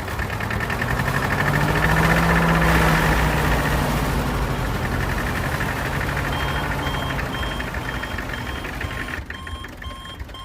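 Motor of a DIY mini tractor running steadily, getting louder over the first couple of seconds and then slowly easing off. From a little past halfway, a regular electronic beep like a reversing alarm sounds about twice a second.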